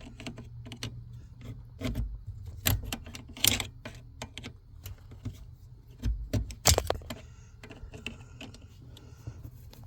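Irregular metallic clicks, clinks and knocks of hand tools working on nuts and bolts under a truck's dashboard, with a few louder clanks, over a faint steady low hum.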